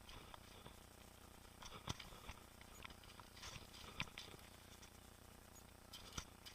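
Faint, muffled ride noise from a mountain bike on a trail: scattered light clicks and knocks, about four of them sharper, over a soft hiss, as the tyres and bike rattle over the ground.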